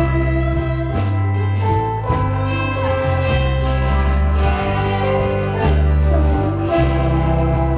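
A band playing a song, with a steady bass line, cymbal hits and several voices singing together.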